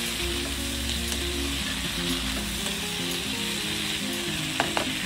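Pork belly, bell peppers and onion sizzling in a hot wok while a spatula stirs and tosses them in the sauce, with a couple of sharp clicks of the spatula against the pan near the end. Soft background music plays underneath.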